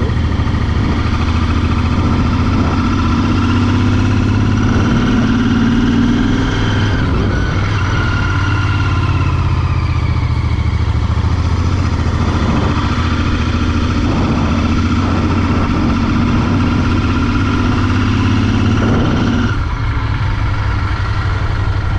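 Royal Enfield Continental GT 650's parallel-twin engine running steadily under way, its note rising and easing off twice as the throttle is worked.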